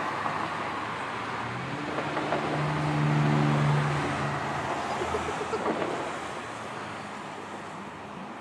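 Road traffic noise with a vehicle engine hum that grows louder for a couple of seconds near the middle, then fades.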